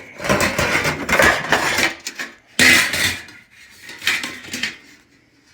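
Metal toaster oven accessories, a baking tray and rack pieces, clattering and rattling against each other as they are handled, in three bouts: a long one at the start, then shorter ones past halfway.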